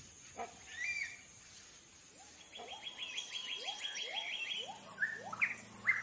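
Tropical forest birds calling: a short whistle, then a fast dry trill, a string of short rising notes about twice a second, and louder upslurred notes near the end.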